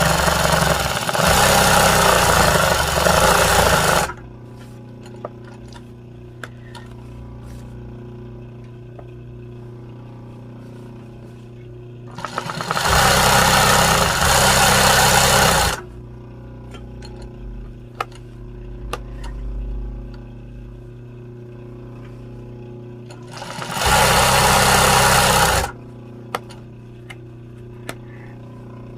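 Embroidery sewing machine stitching in three runs: about four seconds at the start, about three seconds in the middle and about two seconds near the end. A steady low hum and faint ticks fill the pauses between runs.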